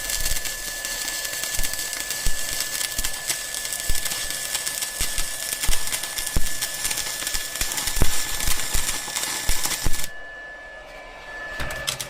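TIG welding arc on mild steel, a dense crackling hiss with scattered sharp clicks over a steady high tone, cutting off about ten seconds in as the weld ends.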